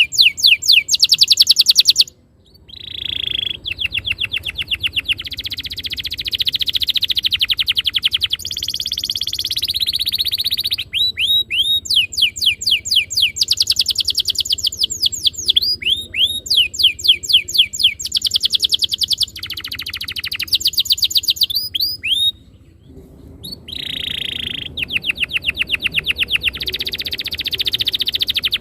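Domestic canary singing in long rolling trills and runs of fast, rapidly repeated sweeping notes, with two short breaks in the song.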